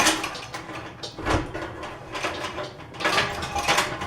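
Metal clicking and ratcheting of the lifting gear as a drill press head is worked down onto its column: a sharp click at the start, then irregular bursts of rattling clicks.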